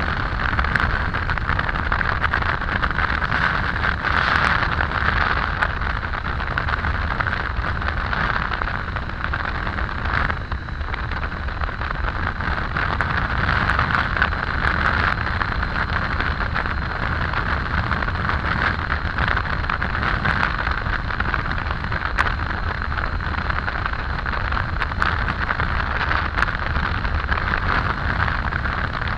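Steady wind rush on the microphone over the road and engine noise of a Triumph Tiger 800 motorcycle's inline three-cylinder engine cruising at a constant speed.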